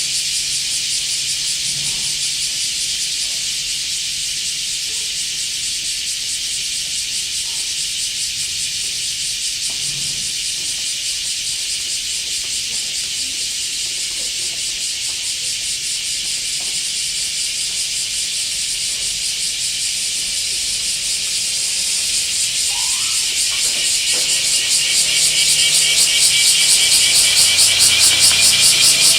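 Cicada singing: a continuous high, buzzing hiss with a fast pulsing texture that swells louder over the last several seconds.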